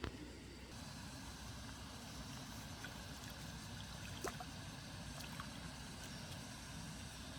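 Faint, steady water trickling and lapping around a small boat on a lake, with a few light knocks, the clearest about four seconds in.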